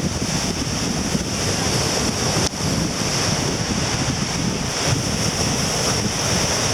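Strong wind buffeting the microphone over surf breaking on the shore at high tide, with a brief dip in the noise about two and a half seconds in.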